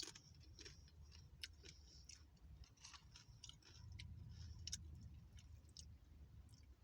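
Faint close-up chewing of crunchy Taco Bell food, with scattered small crunches and mouth clicks, opening with one sharp click.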